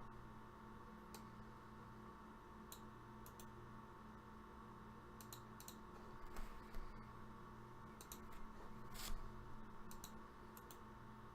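Faint, irregular clicking at a computer, a dozen or so sharp single clicks with a small cluster near the end, over a steady electrical mains hum.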